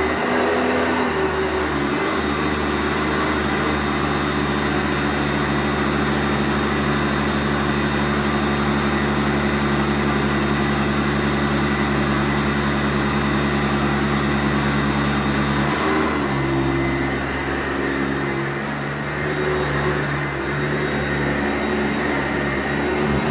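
Sanitaire SC684G commercial upright vacuum running steadily over carpet, its hum shifting in pitch briefly about half a second in, again around two-thirds of the way through, and near the end.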